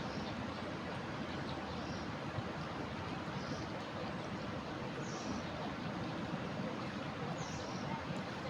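Steady rush of a river running high in flood, with a few faint high chirps over it.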